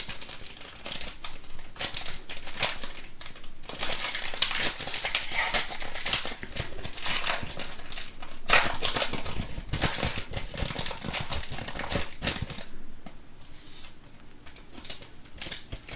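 A sealed trading-card box being opened by hand: rapid crackling, crinkling and tearing of its plastic wrap and scraping of cardboard. It is busiest in the middle and dies down near the end.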